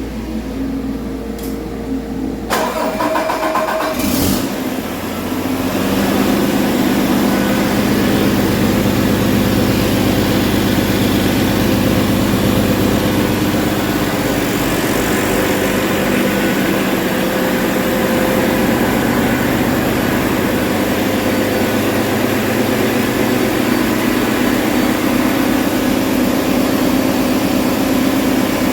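Paccar MX13 inline-six diesel engine being cranked and starting about four seconds in, then running at a steady idle. The seller says the engine runs excellent.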